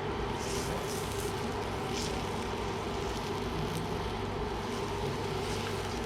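Steady mechanical hum with a constant low drone, a few faint light ticks over it.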